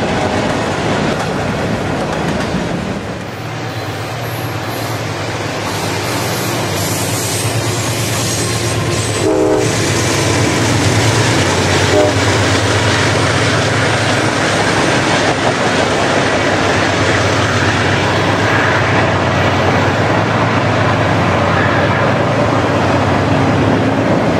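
CSX freight train passing on the main line: the diesel locomotives run with a steady low drone while the freight cars clatter over the rails.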